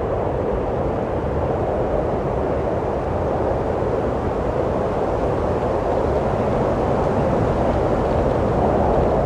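Wind blowing steadily: an even, dull rush with no distinct gusts, growing slightly louder near the end.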